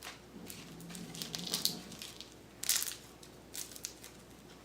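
Homemade slime being pressed and worked to pop its air bubbles: scattered small crackles and pops, with a sharper cluster a little past halfway.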